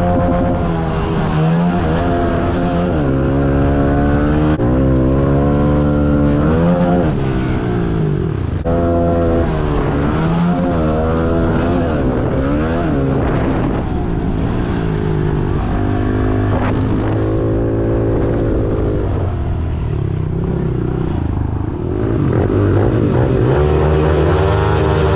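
Pit bike engine revving hard and backing off over and over, its pitch climbing and dropping every second or two as the throttle is worked around the track.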